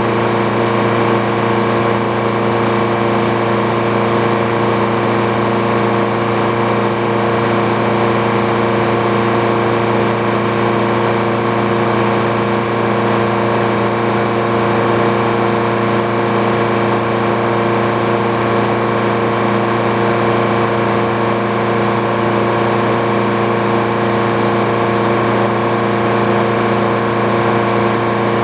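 Engine powering a Frick sawmill running steadily at constant speed, with a fixed hum and whine.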